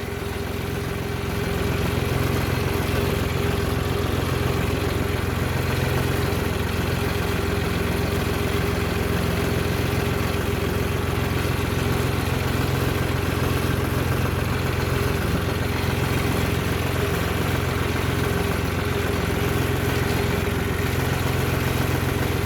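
A vehicle engine running steadily, a constant deep hum with a faint steady whine above it.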